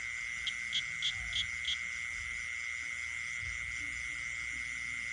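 Night chorus of frogs and insects: a steady high-pitched insect drone with a fast pulsing buzz above it. About half a second in, five quick chirps follow in a row.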